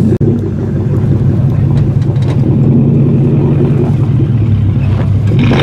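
Car engine and exhaust running with a steady, loud low drone, briefly cut off just after the start.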